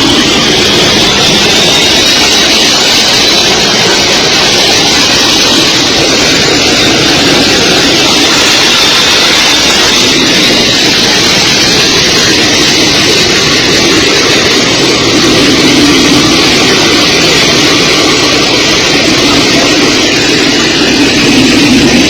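Jet aircraft engines running loud and steady, a dense roar with a thin high turbine whine.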